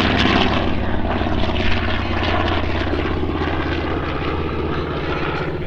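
Propeller-driven World War II warbird's piston engine running steadily in flight. It fades slightly toward the end.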